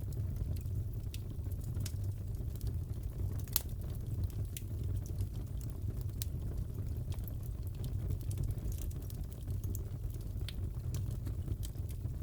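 Fireplace crackling: a steady low rumble of burning with scattered sharp pops and crackles, one a little louder about three and a half seconds in.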